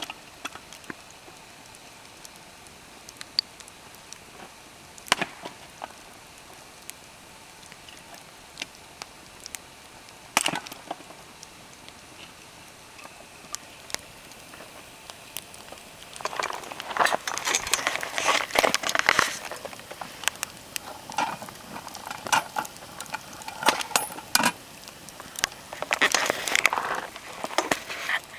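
Wood fire crackling and popping. Single sharp pops come every few seconds at first, loudest about 5 and 10 seconds in. From about 16 seconds in the crackling becomes dense and busy.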